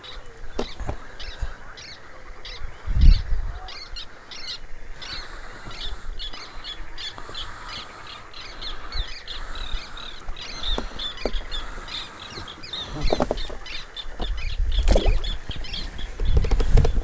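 Small birds calling: a continuous run of short, high chirps, several a second. A few low thumps come about three seconds in and again near the end.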